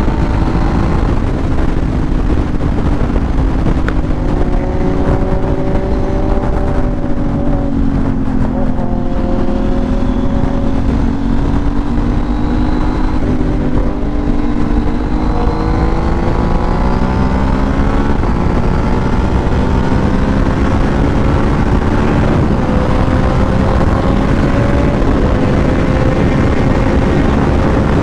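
Superbike engine running at a steady highway cruise under heavy wind and road noise, its pitch sagging slowly and then climbing again partway through.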